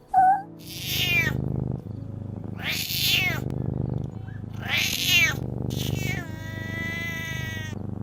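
Kittens meowing: a short chirp at the start, then four meows about two seconds apart. The first three fall in pitch; the last is longer and held level.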